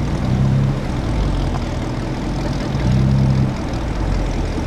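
Car engine running at low revs in passing street traffic, its low hum swelling twice, about half a second in and again around three seconds.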